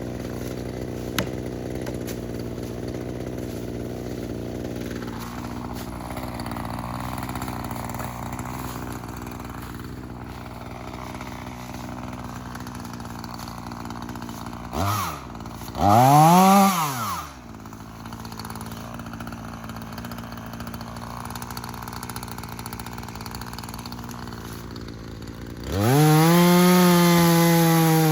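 Echo CS-3510 two-stroke chainsaw idling steadily, blipped briefly and then revved once, rising and falling in pitch. Near the end it is opened up to full throttle and held high.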